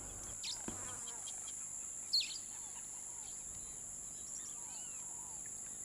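Steady high-pitched drone of insects with scattered short bird chirps, one louder chirp about two seconds in.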